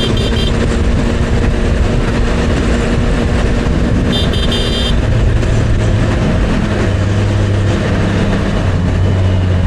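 Motorcycle on the move, engine running under heavy wind and road noise; a quick cluster of high beeps sounds at the start and again about four seconds in. From about five seconds in the engine note drops lower and steadier as the bike slows.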